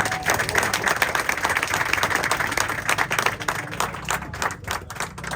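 Crowd applauding: a dense patter of many hands clapping that thins out toward the end.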